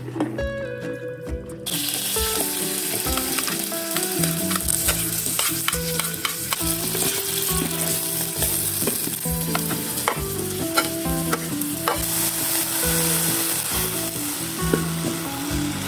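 Chopped onion and garlic, then sliced button mushrooms, sizzling in hot margarine in a pan while a spatula stirs and scrapes with frequent clicks against the pan. The sizzling starts about two seconds in.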